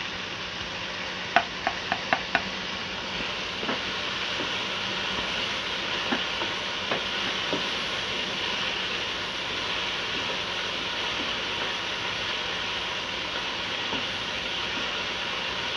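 Boneless chicken pieces frying in hot oil in a nonstick wok: a steady sizzle, stirred with a spatula that gives scattered scrapes and clicks. About a second and a half in comes a quick run of four sharp taps.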